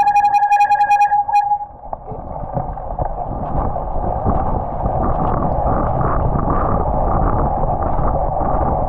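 A steady electronic beeping tone cuts off about two seconds in. Then the steady hiss and rumble of tyres on a wet road and passing traffic carries on.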